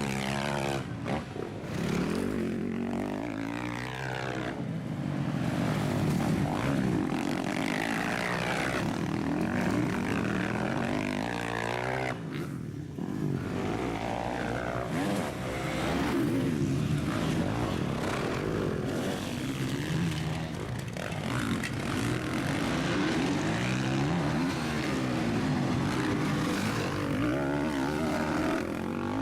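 Several motocross bikes racing, their engines revving up and down with overlapping rising and falling pitch as they accelerate and shift.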